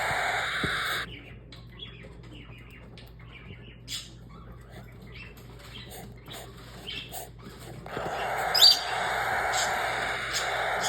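Cockatiel chicks giving raspy, buzzing begging cries while being fed. The cries stop about a second in, leaving a quieter stretch with scattered small clicks, and resume near the eighth second with one sharp chirp.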